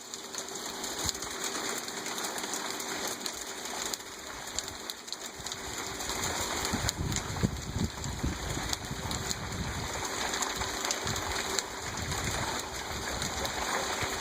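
Hail pattering steadily on surfaces, a dense hiss of many small ticks, with gusts of wind buffeting the microphone from about six seconds in.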